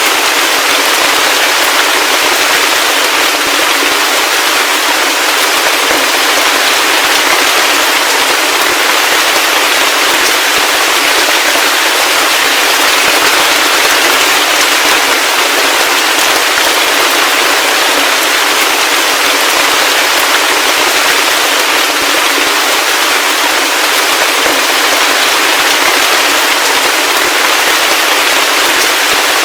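Heavy rain falling steadily, a dense, unbroken hiss of drops with fine crackle.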